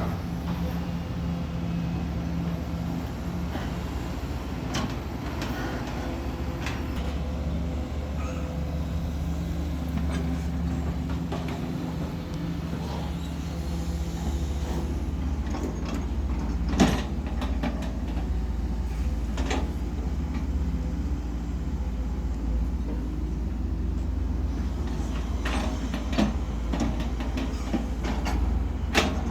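Truck engine running and road noise while driving, a steady low rumble with a few sharp knocks or rattles, the loudest about halfway through.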